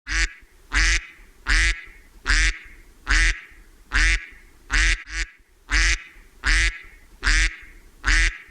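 Duck quacking: about a dozen loud quacks in a steady rhythm, roughly one every three-quarters of a second.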